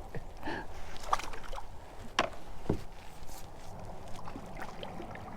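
Kayak sounds on the water: a handful of short, light knocks and bumps from the hull and fishing gear being handled, over a low steady background.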